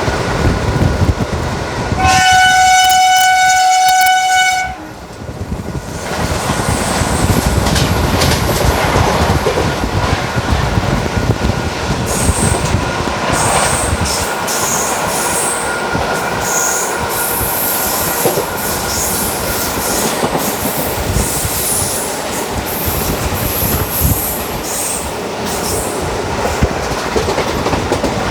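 Train running at speed behind a WAG5 electric locomotive, with steady rumble and clickety-clack of the wheels over the rail joints. The locomotive's horn sounds one long blast about two seconds in, and scattered high squeals from the wheels come in over the second half.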